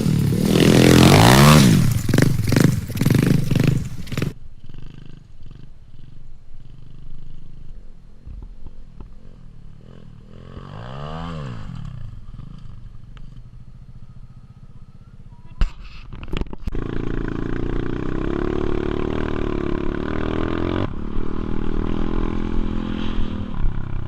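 Motorbike engine revving hard with rising and falling pitch, cutting off abruptly about four seconds in. Then comes a quieter stretch with one rev that rises and falls, a couple of sharp clicks, and the engine running steadily through the rest.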